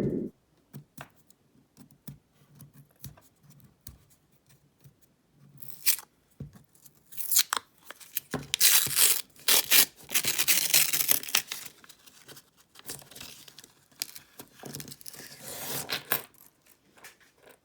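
Paper coin-roll wrapper being torn open in repeated rips, after a few seconds of scattered light clicks.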